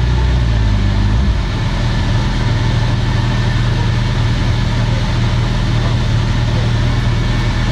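Motorcycle engine running at a steady speed on a dynamometer, its note dropping slightly a little over a second in.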